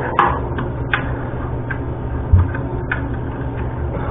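A wrench clicking and knocking on a toilet floor-bolt nut as it is tightened by half turns: a few scattered short clicks, with one louder low knock about two and a half seconds in, over a steady low hum.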